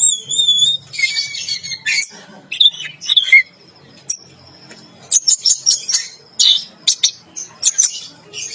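Orange-headed thrush singing a varied song: a wavering whistled phrase at the start, then mixed warbles and short notes, and fast runs of sharp chips about five seconds in and again near the end.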